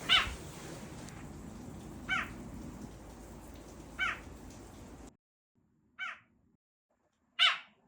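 A small hidden animal calling: five short, high, pitched calls, each dipping slightly in pitch, repeated about every two seconds. The calls echo, which makes them hard to locate.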